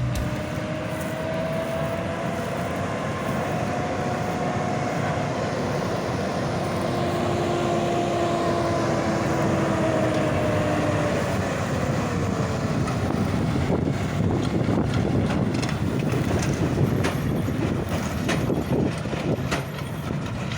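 Large diesel farm machine running steadily under load, with a whine that drifts slightly in pitch and falls away about halfway through. Sharp rattling knocks come in over the last several seconds.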